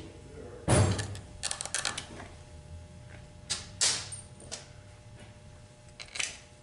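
Metal clinks and knocks as bolts and hand tools are handled while the valve body bolts are set into a transmission. There is a loud knock about a second in, clusters of clinks around two and four seconds, and one more near the end.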